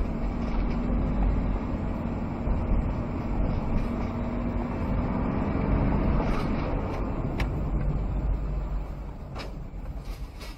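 Road vehicle noise: a steady, noisy low rumble of engine and road, with a low hum that fades out about halfway through, getting quieter near the end.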